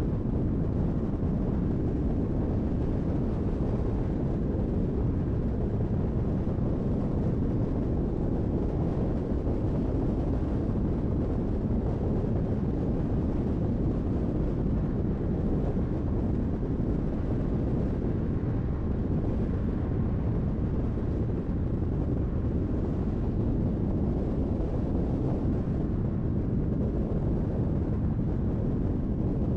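Car driving at a steady speed: continuous low road and tyre noise with engine hum.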